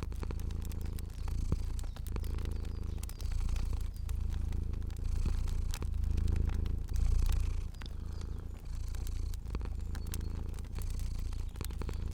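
Cat purring close up: a low rumble that swells and fades about once a second with each breath. Sharp crackles from a fire pop here and there over it.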